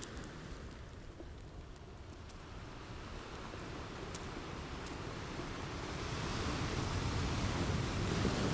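Ocean surf: a wave rushes in, its wash building steadily over several seconds to a peak near the end. A few faint crackles from a fireplace are scattered over it.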